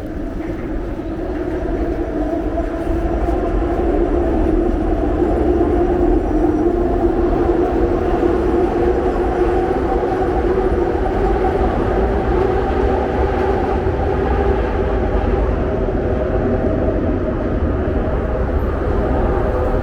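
Elevated train running on the overhead tracks: a loud, steady rumble with a droning hum of wheels on rail, building over the first few seconds and then holding.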